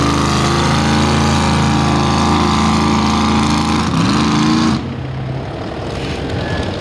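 A pulling truck's engine runs loud and hard under load on the sled. Its pitch rises about four seconds in, then the sound drops away sharply just before five seconds.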